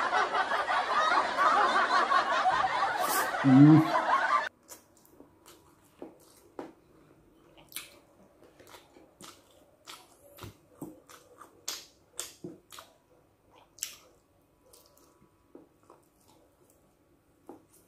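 A loud dense wash of noise cuts off suddenly about four and a half seconds in. After it come quiet, scattered chewing and lip-smacking sounds of a man eating stir-fried noodles by hand.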